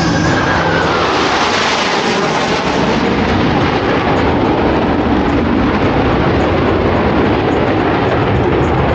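Blue Angels F/A-18 Super Hornet jets making a loud pass, with a whine that falls in pitch as they go by in the first second or so, then steady jet noise.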